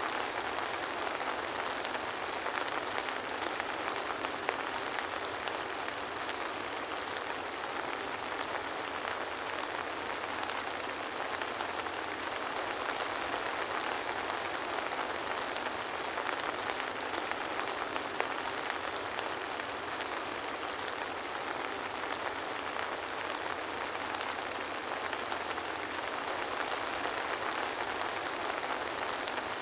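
Soft rain falling steadily with no thunder: an even hiss with faint scattered drop ticks.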